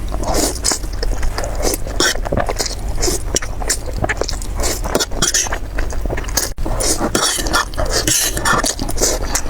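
Close-up eating sounds: a dense run of crunching, clicking bites and chewing, with utensils clinking and scraping against dishes. There is a brief break about two-thirds of the way through.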